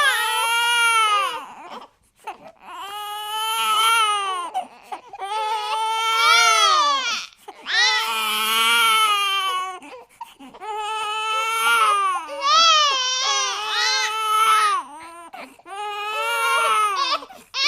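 Infant crying hard: one loud wail after another, each rising and falling in pitch, with short catches of breath between them.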